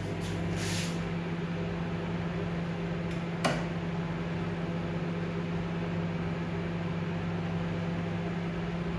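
Microwave oven running on medium-high power: a steady electrical hum with fan noise, and one brief click about three and a half seconds in.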